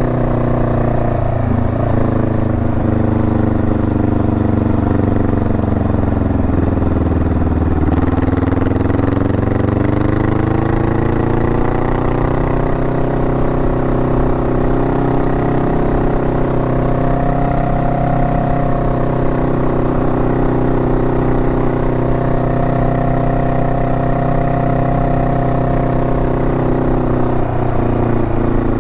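Honda Rebel 500's parallel-twin engine running on the move. The revs drop about six seconds in, climb again over the next few seconds, then hold steady.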